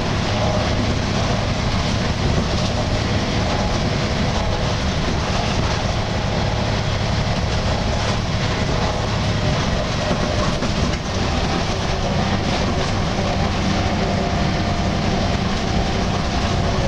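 Volvo B10BLE single-deck bus's six-cylinder diesel running on the road, heard from inside: engine and road noise with a groaning drone of several steady tones. A low hum under it fades about nine seconds in.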